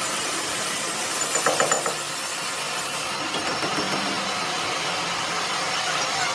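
A motor running steadily, with a quick run of sharp knocks about one and a half seconds in.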